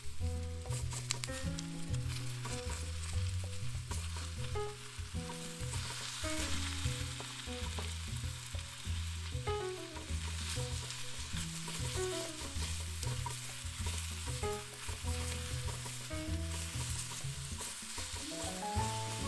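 Chopped Chinese cabbage and turmeric leaves sizzling in a hot skillet while a wooden spoon stirs and scrapes them, with clicks of the spoon against the pan. Background music with a bass line plays underneath.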